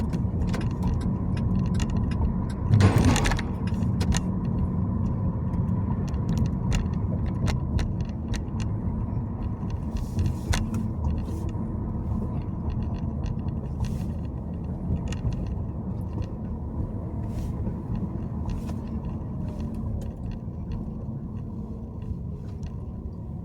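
Road noise and engine rumble inside a moving car, with light clicks and rattles from the cabin. A louder rush of noise comes about three seconds in, and the noise eases off over the last several seconds.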